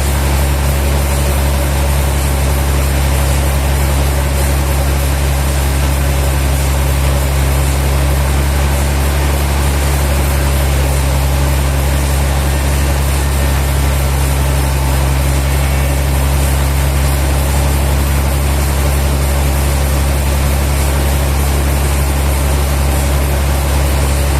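Sawmill machinery running steadily: a deep, even engine hum that holds the same pitch and loudness throughout, with no cuts or load changes.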